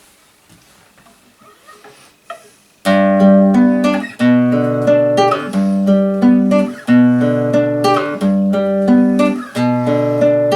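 Acoustic guitar strumming chords, starting sharply about three seconds in after a faint hiss: the instrumental opening of a song.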